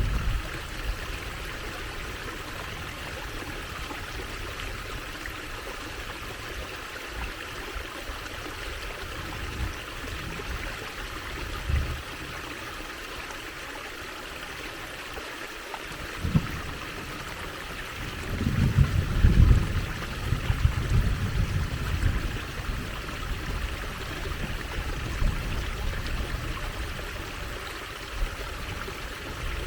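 Water trickling steadily in a stream. A stretch of low rumbling comes about two-thirds of the way through, with a couple of brief low thumps before it.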